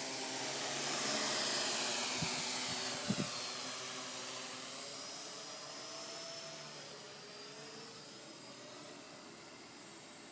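Parrot AR.Drone quadcopter in flight, its four electric rotors giving a steady high whine whose pitch wavers as it manoeuvres, growing steadily fainter as it flies away.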